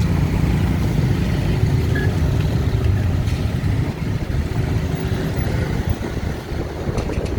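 Busy city street traffic: the mixed engine rumble of motorbikes and cars running and passing, a little quieter from about four seconds in.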